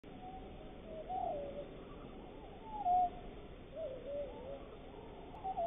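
A bird calling: four or five low, wavering cooing notes, one after another.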